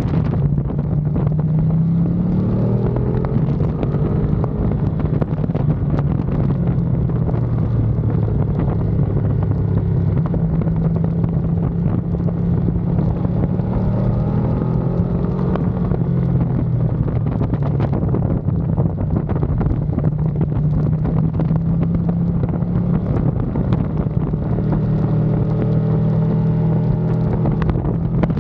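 Ducati Panigale V2's L-twin engine ridden hard, revs climbing and dropping repeatedly through gear changes, with wind rushing over the microphone.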